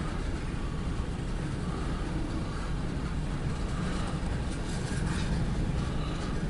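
Steady low rumble of a vehicle in motion, with a lighter hiss above it.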